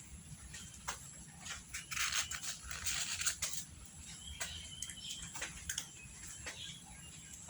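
Scattered light clicks and rustling, loudest a couple of seconds in, with a short bird chirp about halfway through.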